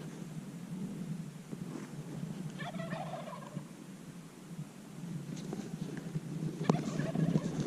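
Wild turkey gobbling once, a rattling call about two and a half seconds in, over a steady low background hum; a sharp snap near the end.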